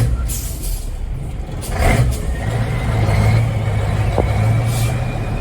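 Scania 14-litre DSC14 V8 diesel in the converted truck running on the road, a steady low drone that grows louder after about two seconds, with a sharp knock at the start and another about two seconds in.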